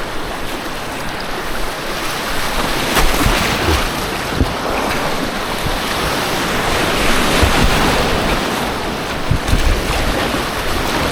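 Rushing white water on an artificial whitewater course, heard close from a kayak, with low buffeting on the action camera's microphone.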